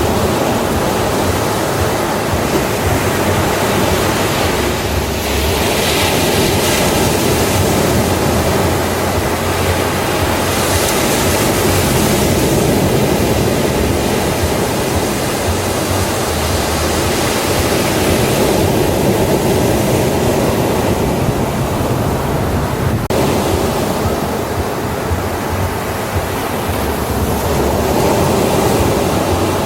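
Ocean surf on a beach: a steady wash of breaking waves that swells and eases slightly, with wind on the microphone.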